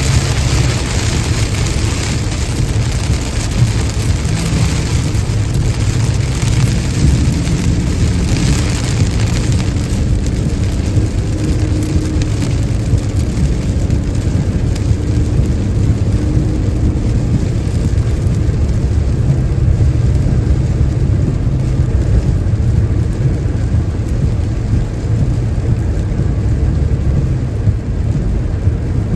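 A car driving on a rain-soaked interstate: a steady low rumble of road and tyre noise with the hiss of rain and spray from the wet road. The higher hiss is stronger in the first third and then eases off.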